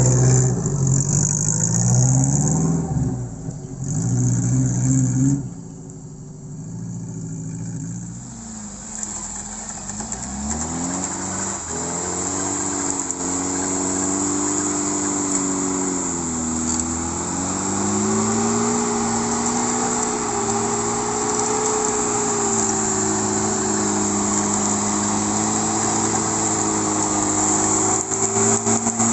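Off-road vehicle engine revving hard and unevenly for the first five seconds or so, then easing off and running on more steadily, its pitch rising and falling slowly with the throttle.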